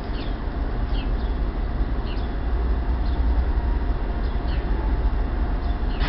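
Birds chirping: short, high chirps that fall in pitch, about one every second or so, over a steady low rumble.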